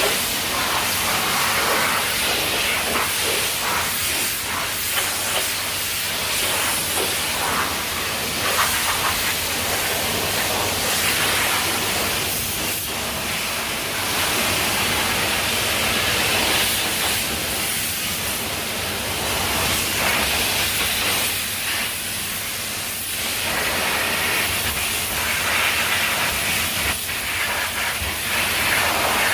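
High-pressure water spraying from a self-service car wash wand: a steady hiss that swells and dips.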